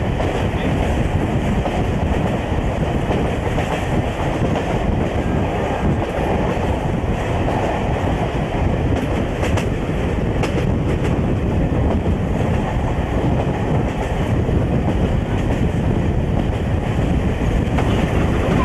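Passenger train running along the track, heard from a window of one of its coaches: a steady, loud rumble of wheels on rail, with a few faint rail-joint clicks about halfway through.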